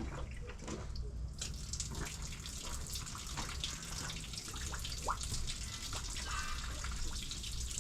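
Water from a hose running and splashing as it fills an engine's cooling system, getting fuller a little over a second in.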